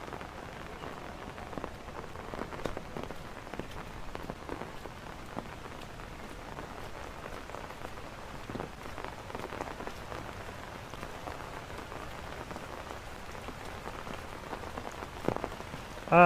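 Heavy rain falling steadily, with scattered sharp drop ticks through the steady hiss.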